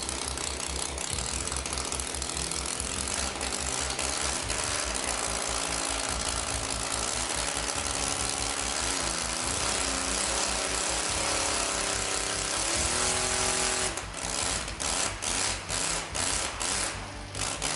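Kolm 150cc three-cylinder inline four-stroke model aircraft engine running on straight pipes, with a rapid steady firing beat. Its pitch rises and falls as the throttle is worked about halfway through, and about fourteen seconds in it drops back to an uneven, pulsing low speed.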